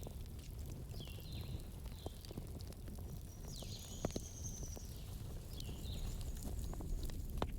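Wood campfire crackling, with a low steady rumble and scattered sharp pops, two louder ones about four seconds in and near the end. Over it come a few short high chirps from a bird, with one longer call midway.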